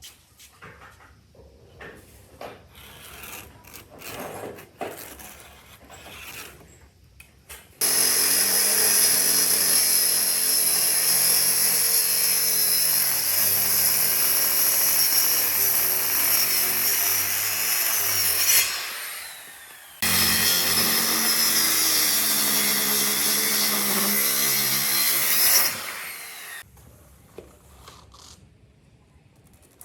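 A few light knocks and handling noises, then a handheld power tool starts and works the wood with a loud, steady running sound. It stops and winds down, starts again for a few more seconds, and winds down once more.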